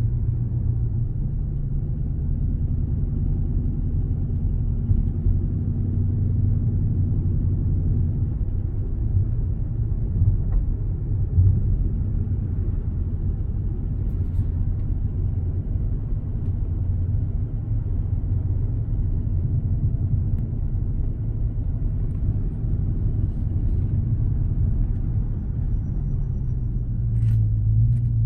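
Dodge Charger SRT8 392's 6.4-litre HEMI V8 running under way with a steady low exhaust drone, carrying a constant metal-on-metal ticking that the owner says gets faster and louder with acceleration and downshifts.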